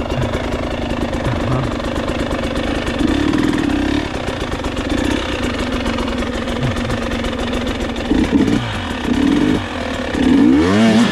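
Enduro motorcycle engine running under load, its revs rising in several bursts, with a longer climb in revs near the end.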